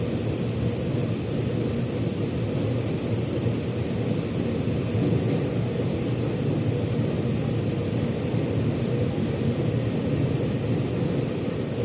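Metro train running, heard from inside the car: a steady low rumble of wheels and motors with an even hiss above it.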